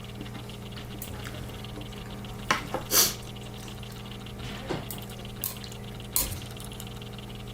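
Eating utensils clinking and knocking against a ttukbaegi earthenware pot of ramen, a few sharp clinks with the loudest about three seconds in, over a steady low hum.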